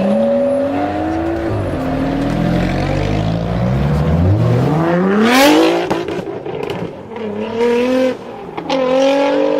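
Nissan R35 GT-R's straight-piped twin-turbo V6 accelerating hard: the revs climb, drop once as at a gear change, and climb again to a peak about five and a half seconds in before falling off. Two shorter throttle blips follow near the end.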